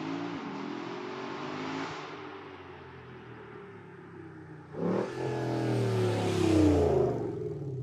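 Lexus IS 500's naturally aspirated 5.0-litre V8 running through a titanium exhaust. It eases off and quietens after about two seconds, then opens up sharply about five seconds in, rising to its loudest near the end before easing again.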